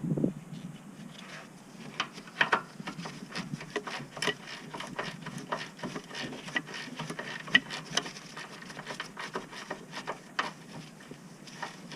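Hand tools and parts being handled during work on a car: irregular light clicks and knocks, several a second at times, with a few sharper knocks about two and a half, seven and a half and ten seconds in.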